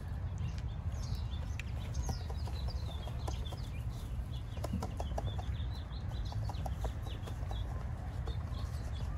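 Small birds chirping, a busy run of short falling chirps, over a steady low rumble. A few light scratches of a hand broom's bristles on dirt come in the middle.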